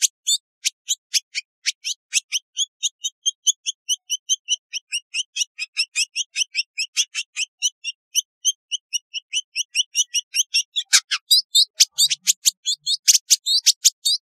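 Village indigobird singing: a long run of short, high chirps, about four a second, growing louder and more crowded near the end.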